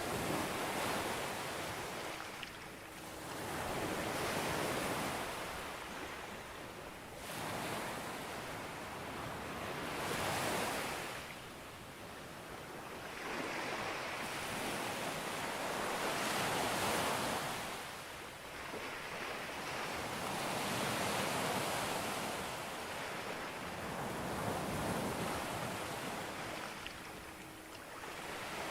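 Ocean waves breaking and washing up on a beach, the surf swelling and ebbing every few seconds.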